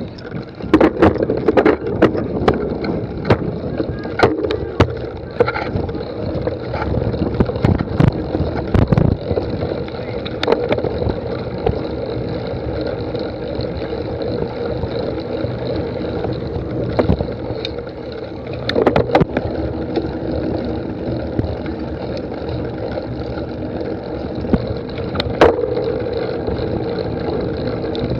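Cyclocross bike ridden over a rough course: a steady rush of wind and rolling noise, with many irregular sharp knocks and rattles as the bike jolts over bumps.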